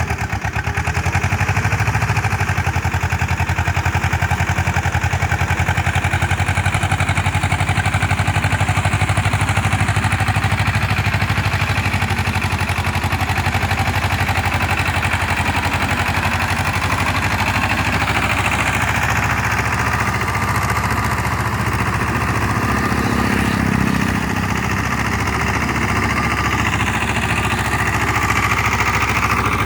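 Tractor diesel engine running steadily while puddling a flooded paddy field with a rotavator, its level dipping slightly about 24 seconds in.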